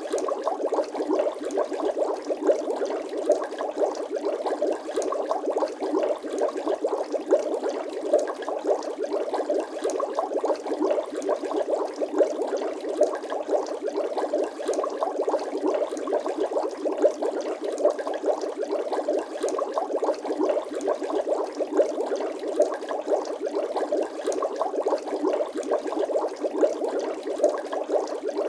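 Bubbling water sound effect: a dense, steady stream of small gurgles and pops, with no deep bass.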